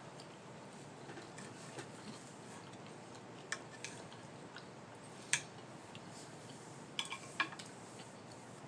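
Light, scattered clicks and taps of a fork and knife against a dinner plate while eating. The sharpest comes about halfway through, and two come close together near the end.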